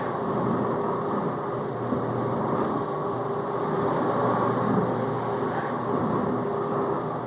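Whirlpool dishwasher circulating water during its final rinse: the pump runs steadily with a low hum under the sound of water washing around inside the tub.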